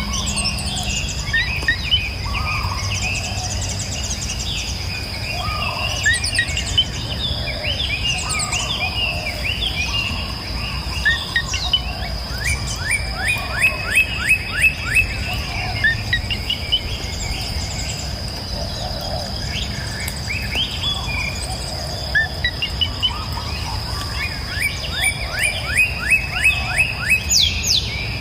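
Several songbirds singing and calling, with two fast runs of repeated descending notes, over a steady high-pitched insect-like whine and a low, even rush of flowing water.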